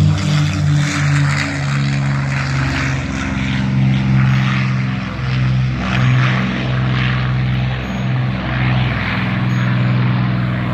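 Piston-engine propeller airplanes in flight, a loud steady engine drone whose pitch shifts up and down every second or so.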